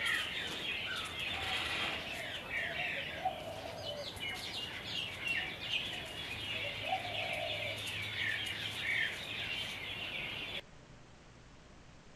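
Birds chirping busily, many short overlapping chirps, with a few lower calls now and then. The chirping cuts off abruptly about ten seconds in, leaving faint room tone.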